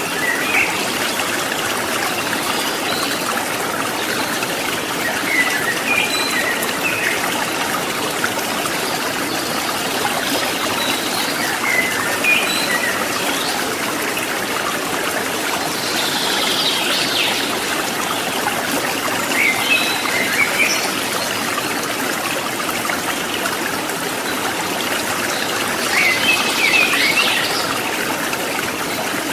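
Stream water babbling and trickling steadily, with birds chirping in short bursts about six times over it.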